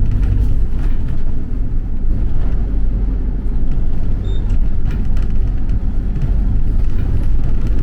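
Steady low rumble of a vehicle on the move, heard from inside, with scattered small clicks and rattles.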